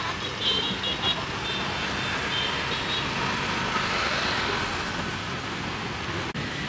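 Steady road traffic noise from vehicles passing on the street, with a string of short high-pitched beeps during the first three seconds.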